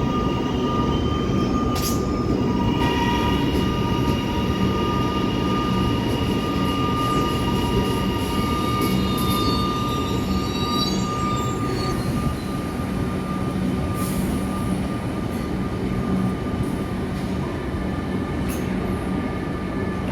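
Melbourne suburban electric train moving along a platform: a steady low rumble under whining tones, with brief high squeals about eight to eleven seconds in.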